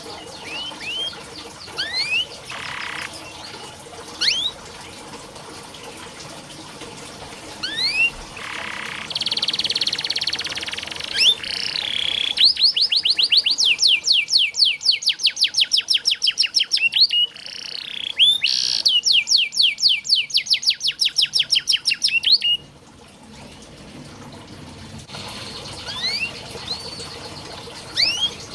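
Domestic canary singing: scattered rising whistled notes, then two long, rapid trills of quickly repeated notes in the middle.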